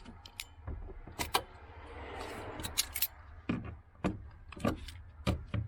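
Scattered sharp metallic clicks and clinks from hand work on car parts and tools, with a brief soft rustle about two seconds in.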